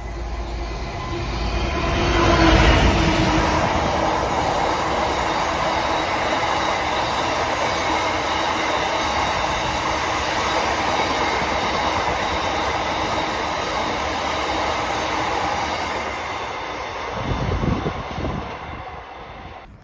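A train running along the track through the station: a steady rush of wheel and running noise that swells about two seconds in, holds, and fades near the end.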